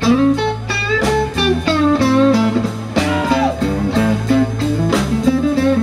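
Blues band playing an instrumental passage between vocal lines: a lead guitar plays bending notes over steady bass notes and a regular drum beat.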